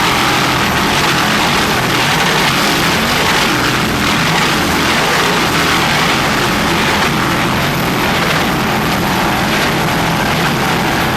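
Steady, loud noise of a camera helicopter's engine and rotor, with the racing powerboats' engines mixed in.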